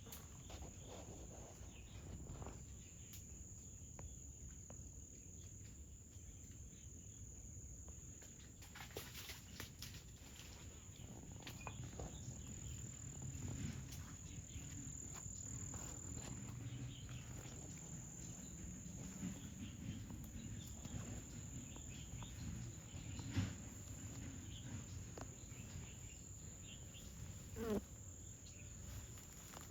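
Steady high-pitched chirring of insects, over a faint low rumble with scattered soft rustles and clicks. Late on, a sharp knock and then a short, louder sound.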